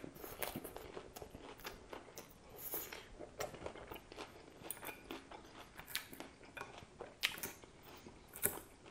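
Person chewing a mouthful of iceberg lettuce salad: irregular crisp crunches several times a second, with a few louder crunches now and then.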